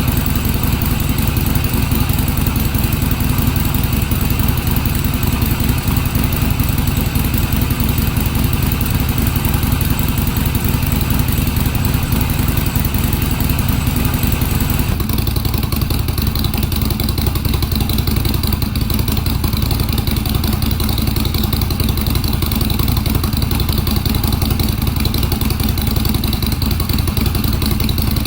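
Harley-Davidson Sportster Forty-Eight's 1200 cc air-cooled V-twin running steadily at idle through its exhaust, the sound changing abruptly about halfway through: first with the stock mufflers, then with 16 mm punched-out North American mufflers.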